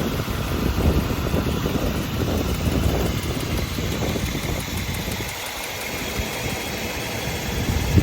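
1984 Mercedes-Benz 500 SEC's M117 V8 idling steadily, a dense, even low pulsing with no revving.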